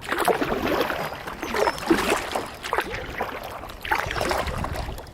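Kayak paddle strokes splashing in the water, a surge of splashing about every second.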